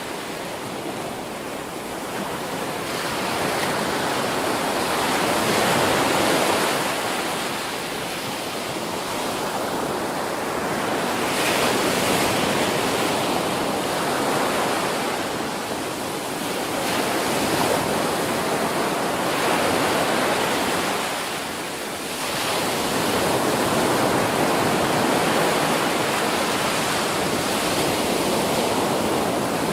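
Ocean surf: waves breaking on a beach in a continuous wash that swells and eases every few seconds, with a brief lull just before the last few waves.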